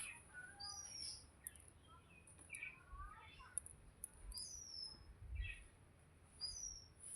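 Small birds chirping: a scatter of short high calls, several sliding quickly down in pitch, over a steady faint high hiss, with a few soft knocks.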